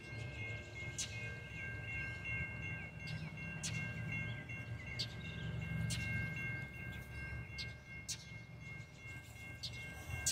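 A train approaching: a low rumble under a steady chord of high ringing tones.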